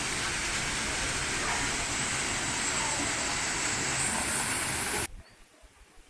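Steady rush of running water, an even loud hiss that cuts off abruptly about five seconds in.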